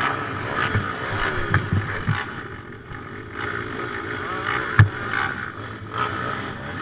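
Motocross bike engine revving up and down as it is ridden, picked up by a helmet-mounted camera with wind on the microphone. There are several knocks, and one sharp thump just before five seconds in.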